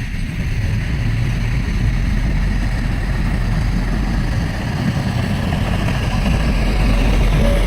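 Diesel engine of heavy earthmoving machinery running steadily with a deep rumble, getting a little louder near the end.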